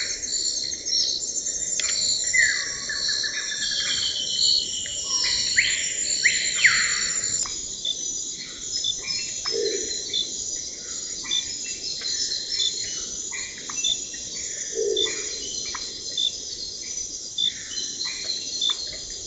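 Birds calling with chirps and falling whistled notes over a steady chorus of trilling insects; the mix changes abruptly about seven seconds in.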